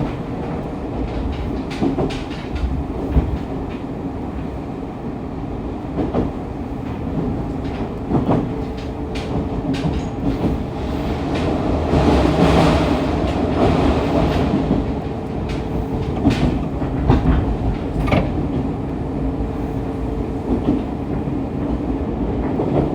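Fukuoka City Subway 2000-series electric train car running between stations, heard from the car floor: a steady rumble with a steady hum and repeated sharp clicks of the wheels over the rails, swelling louder for a couple of seconds around the middle.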